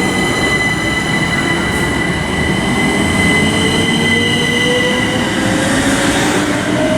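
Southern Class 377 Electrostar electric multiple unit pulling away from the platform. A set of steady high-pitched whines is joined by a lower electric whine that rises steadily in pitch as the train picks up speed.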